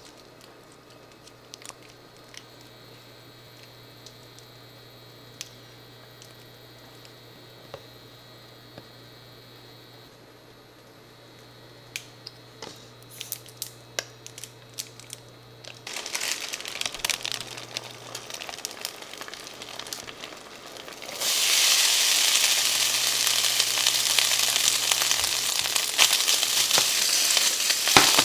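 A low steady hum with scattered small taps as oil and garlic paste go into a nonstick frying pan; about 16 seconds in, frying starts, and from about 21 seconds a loud steady sizzle as frozen char siu fried rice is stir-fried, with spatula scrapes.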